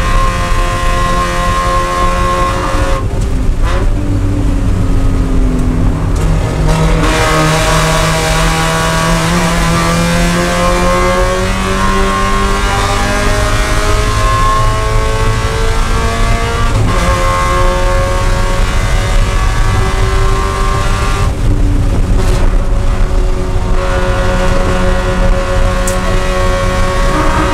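Spec Miata race car's four-cylinder engine heard from inside the cockpit at high revs, pitch climbing under acceleration and dropping at several gear changes and lifts for corners, over steady wind and road noise.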